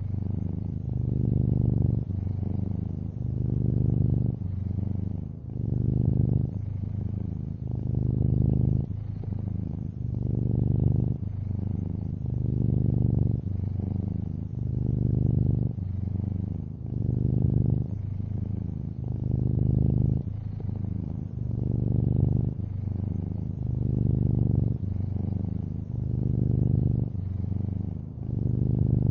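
Domestic cat purring close up, a low steady rumble that swells and eases with each breath about every two seconds.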